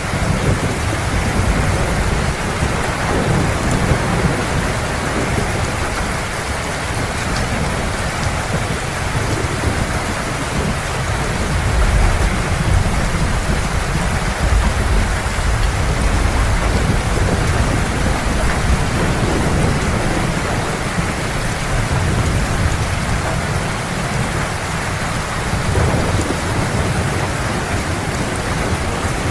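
Heavy rain pouring steadily on surfaces, with rolling thunder rumbling low underneath and swelling several times, loudest about halfway through.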